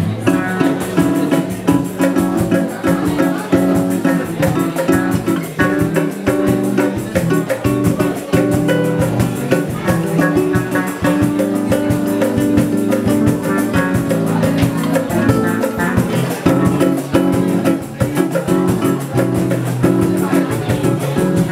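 Band music: guitar and drum kit playing with a steady beat.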